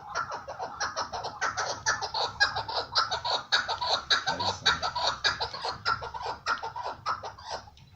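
Chukar partridge calling in a rapid, continuous run of short, harsh notes, several a second, thinning out just before the end.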